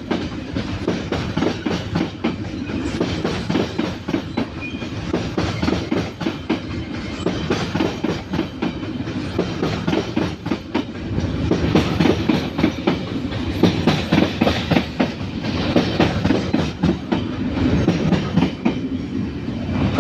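Train passing with a steady rumble and rapid clickety-clack of wheels over rail joints, growing louder about halfway through.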